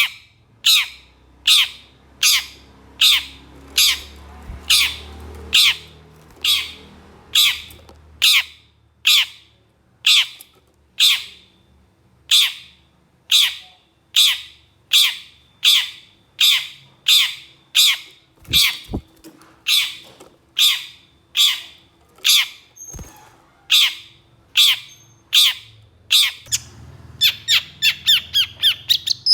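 Long-tailed shrike (cendet) giving harsh, rasping calls, repeated evenly about one and a half times a second, then quickening into a rapid run of calls near the end.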